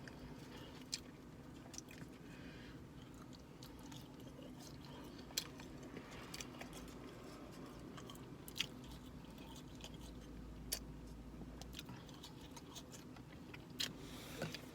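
A man chewing and eating french fries, with scattered short crunches and clicks over a faint steady hum.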